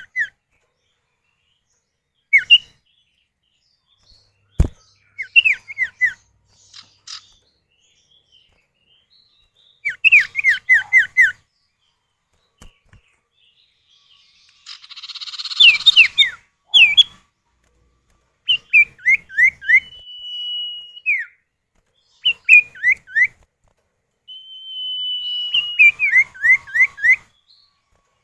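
Common iora (sirtu or cipoh) male and female calling back and forth. The calls are repeated groups of three to five quick falling whistled notes, two long level whistles, and a harsh rasping buzz about halfway through. There is a single sharp click about five seconds in.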